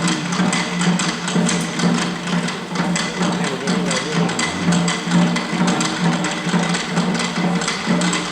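Shishi-odori deer dancers' taiko drums beaten in a quick, even rhythm, about five strikes a second, over a steady low drone of tone.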